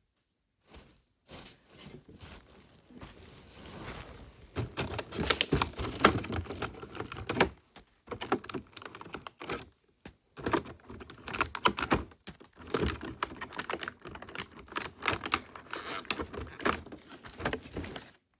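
Plastic toy packaging crinkling and crackling as it is handled and pulled open, in quick runs of small clicks with brief pauses about 8 and 10 seconds in.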